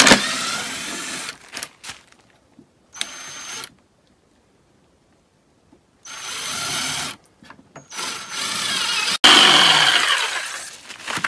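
Power drill driving a screw in about five bursts of up to two seconds each, with pauses between them; the last and longest follows a sharp click.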